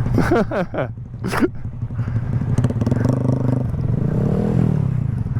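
Honda Grom's small single-cylinder engine running, with a brief voice in the first second and a half. About four seconds in, the engine revs up and eases back down as the bike is ridden off.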